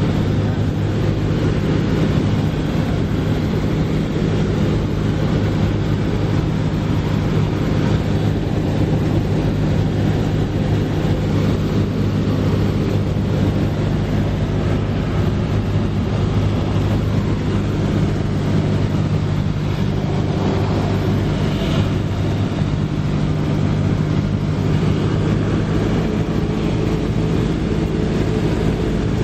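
Cessna 172S Skyhawk's Lycoming IO-360 four-cylinder engine and propeller droning steadily in flight.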